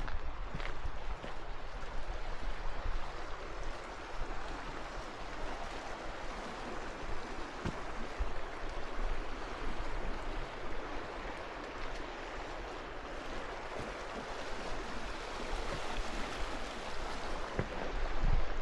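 Flowing water rushing steadily, with a low rumble of wind on the microphone.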